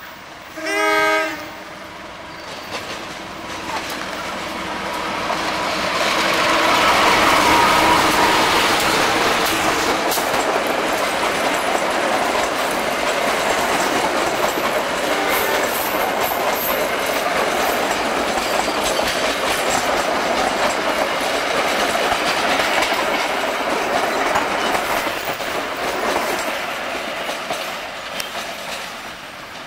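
A diesel locomotive sounds a short horn blast about a second in, then it and its passenger coaches pass close by. The engine and wheel noise swells to a peak, then gives way to a long, steady clatter of the coach wheels over the rail joints that fades near the end.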